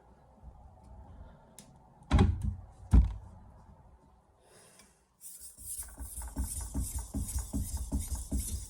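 Two sharp knocks, then from about five seconds in a steel Santoku blade scraping back and forth across a wet 1000-grit soaking whetstone coated in slurry, in quick regular strokes about three a second.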